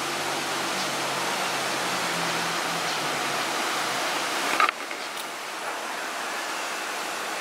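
Strong tropical-storm wind blowing, a steady rushing noise. There is a brief knock about four and a half seconds in, after which it is a little quieter.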